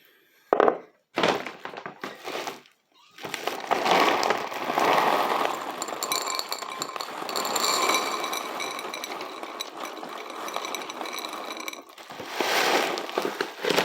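Dry cat kibble poured from a bag into a bowl: a continuous rattling clatter of pellets lasting several seconds. A few sharp knocks come before it starts, and a short burst near the end.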